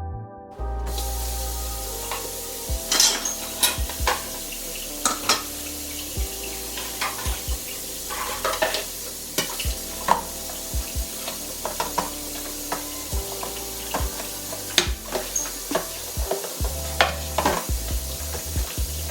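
Background music with a steady bass line over a constant hiss, with irregular clinks and clatters of dishes and utensils being handled.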